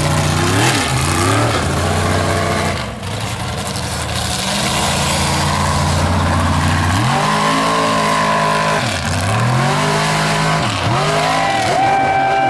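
Mud truck engine revving hard, its pitch swinging up and down again and again, with two long high holds, over a steady rushing hiss.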